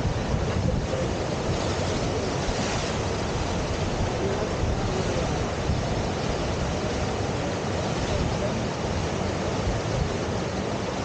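Steady rush of river water pouring through a standing surf wave on the Deschutes River.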